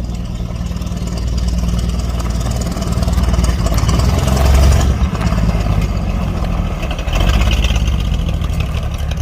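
A vehicle engine running, with its speed or load rising and falling: it grows louder toward about four and a half seconds, drops briefly, then picks up again about seven seconds in.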